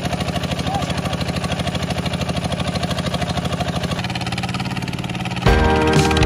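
Walk-behind tractor engine running with a fast, even chugging; loud music cuts in abruptly near the end.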